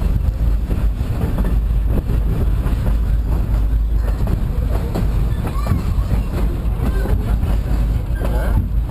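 Steady low rumble of a narrow-gauge train in motion, with faint voices in the background.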